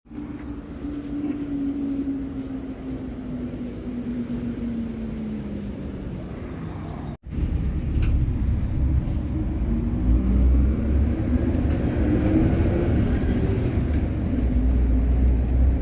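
Hyundai New Super Aero City city bus engine running while driving: the engine note falls steadily as the bus slows. After a sudden cut, a louder, heavier engine rumble rises in pitch as the bus pulls away and accelerates.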